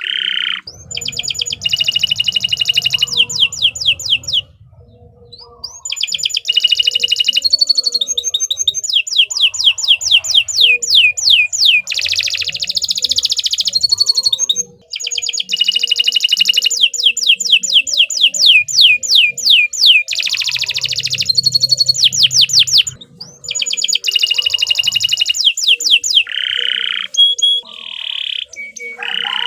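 Domestic canary singing long, loud phrases of rapid trills: fast runs of repeated falling notes, broken by a few brief pauses between phrases.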